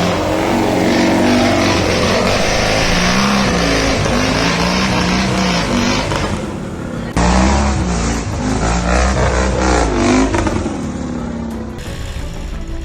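Vehicle engine revving hard, its pitch rising and falling repeatedly, with an abrupt cut about seven seconds in to another stretch of revving.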